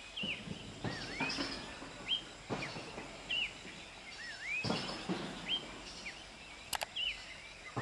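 A bird calling over a faint outdoor background: short whistled notes that dip and rise in pitch, repeated about once a second. A few soft knocks, and a sharp click near the end.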